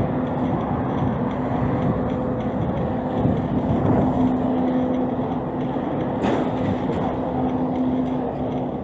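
Steady street traffic noise with the hum of a running vehicle engine, and one sharp click about six seconds in.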